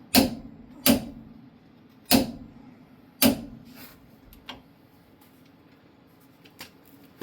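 Metal tools working on a differential make four sharp metallic clicks about a second apart in the first half, each with a short ring. A couple of fainter ticks follow later.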